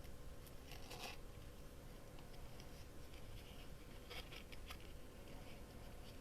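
Faint rustles and small ticks of a paper tag and ribbon being handled, a few scattered bursts over a low steady room hum.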